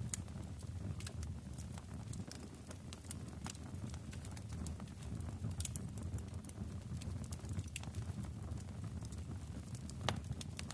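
Wood fire crackling: irregular sharp pops and snaps over a steady low rumble of burning, with one louder pop near the end.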